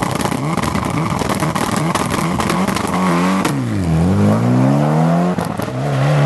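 Rally car engine revving up and down at the start line, then pulling away about three to four seconds in and accelerating hard through a gear change, its pitch climbing again near the end. Sharp pops and cracks run throughout.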